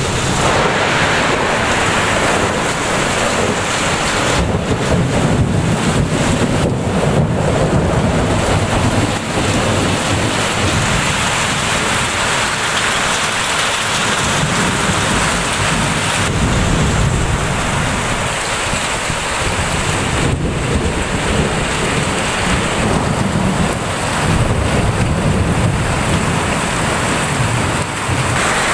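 Heavy monsoon downpour: rain pouring hard and steadily, with low thunder rumbling that swells and fades several times.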